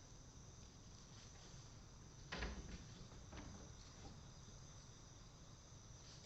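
Steady high chirring of a summer evening insect chorus. About two seconds in comes one sharp crack with a low thud from the cedar-wood fire, followed by a couple of fainter snaps.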